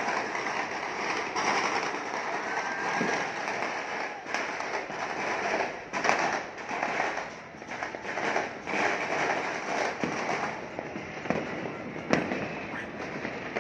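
Many fireworks and firecrackers going off at once: a continuous crackling with sharper bangs every second or so.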